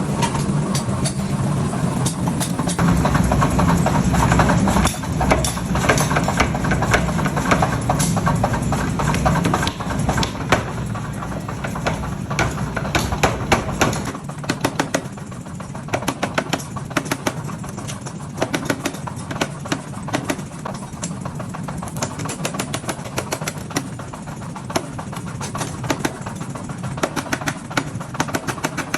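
Hammer blows on hot steel at a forge, many sharp ringing strikes, often several a second, at an irregular pace. Under them a steady low machine drone runs, and it drops away about halfway through.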